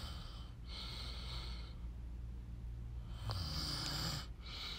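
A person breathing close to the microphone: four hissy breaths of about a second each, over a steady low hum.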